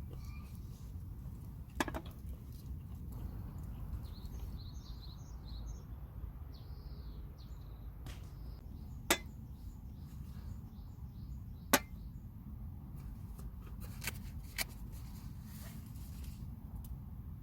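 Campfire wood popping a few sharp times over a low steady rumble, with small birds chirping faintly for a few seconds around the middle.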